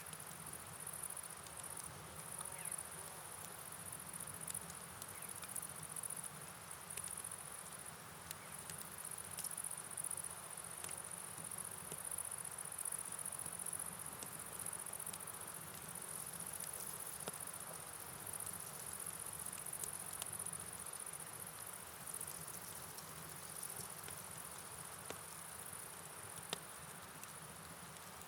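Night ambience: a steady, high-pitched chirring of night insects over the soft hiss of rain and a flowing river, with scattered light ticks of drops.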